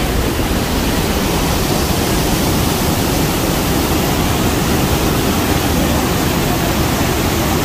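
Rhine Falls waterfall: a steady, loud roar of falling water.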